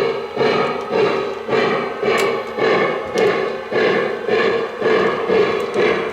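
Lionel Legacy 4-8-4 Northern model steam locomotive's onboard sound system chuffing steadily at about two chuffs a second as the engine runs, with a few sharp clicks.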